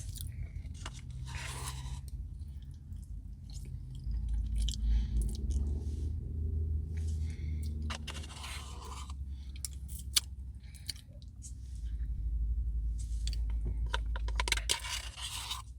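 Close chewing and crunching of a chocolate brownie Blizzard, with irregular clicks and scraping sounds.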